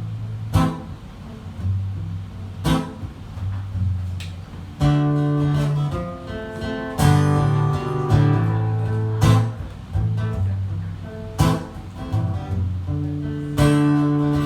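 Acoustic guitar strumming chords as a song's instrumental intro, before the singing comes in.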